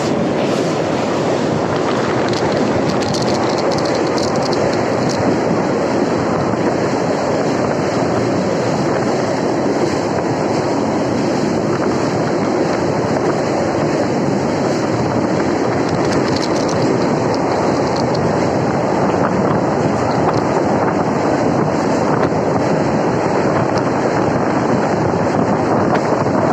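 Train running at speed: a steady, unbroken rumble of wheels on rails, with faint clicks here and there.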